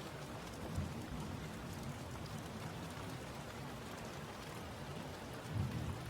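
Steady rain falling, an even hiss of drops, with two brief low rumbles: one about a second in and one near the end.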